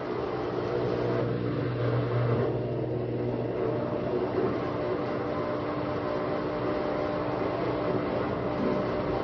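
Midea washer-dryer spinning, a steady motor hum with several held tones, the low one strongest for the first few seconds. This is the noise the owner hears during the spin and is showing as a fault.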